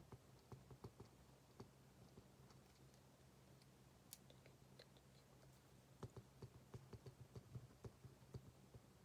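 Faint, irregular small clicks and taps of desk work, such as typing or writing with a pen, coming thicker from about six seconds in, over a low steady hum.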